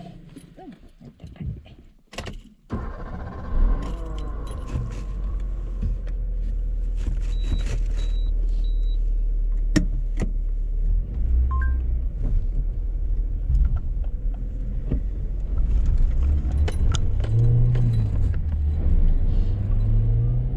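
Car heard from inside: after a few clicks and knocks the engine runs with a steady low rumble, its pitch rising and falling as the car drives, with small rattles and jangles throughout and a few short electronic beeps.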